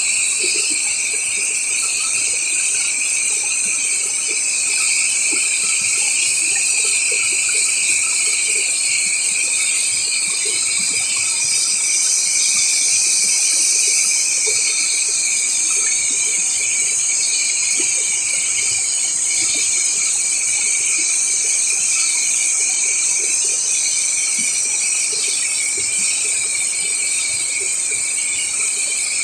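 A loud, steady chorus of insects, several shrill high tones droning together. A further high tone joins around the middle and drops out a few seconds before the end.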